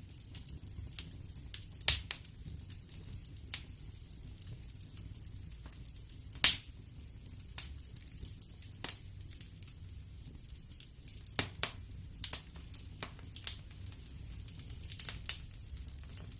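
Wood fire crackling in a fireplace: scattered sharp pops and snaps over a low steady rumble, with two louder pops, one about two seconds in and the loudest about six and a half seconds in.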